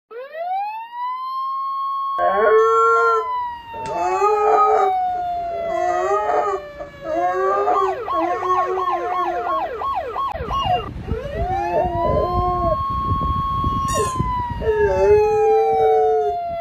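Ambulance siren wailing: it rises, holds, then slowly falls. About eight seconds in it switches to a fast yelp for a couple of seconds, then wails again. Dogs howl along over it in short rising-and-falling howls.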